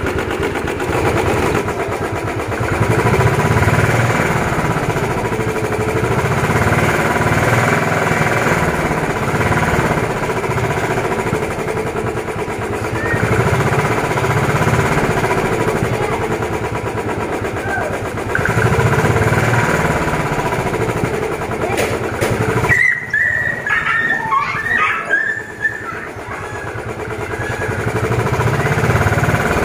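Royal Enfield Bullet 350's single-cylinder engine being revved over and over, rising and falling every few seconds. About three-quarters of the way through, the engine note drops away for a few seconds, then the revving picks up again.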